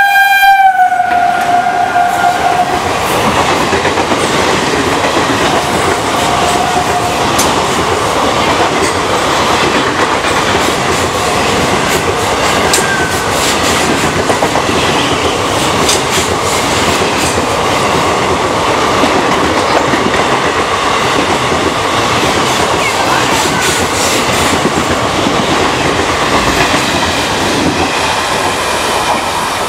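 WAP-4 electric locomotive's horn ending with a drop in pitch as it passes at speed, then the express coaches rushing by with steady clickety-clack of wheels over the rails. The noise eases near the end as the last coach clears.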